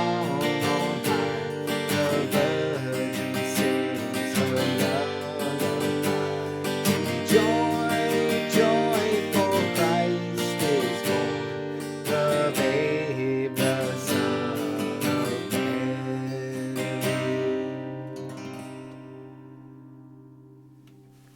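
Seagull S6 mahogany acoustic guitar played with picked and strummed notes. The last chord rings out and fades away over the final few seconds.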